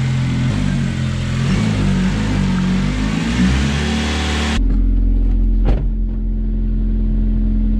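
Honda Civic's engine running at a cold idle, its pitch wavering during the first half. About four and a half seconds in, the sound turns abruptly duller into a steady low hum, with a single click soon after. The car has a vibration and rattle that the owners suspect is a worn motor mount or the exhaust tip.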